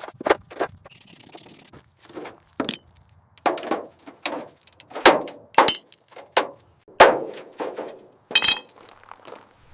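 Irregular knocks and clinks of metal tools and parts being handled and set down, about a dozen in all, a few of them ringing briefly.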